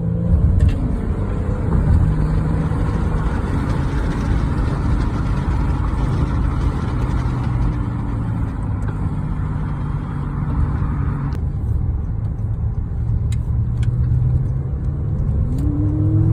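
Twin-turbo Lamborghini Huracán V10 running at low revs, with a brief rise in revs near the start and another about a second before the end. A steady hiss over the engine cuts off suddenly about eleven seconds in.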